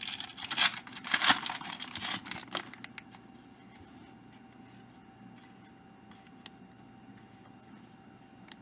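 A trading card pack wrapper being torn open, with crinkling over the first two seconds or so, then faint light clicks of cards being handled.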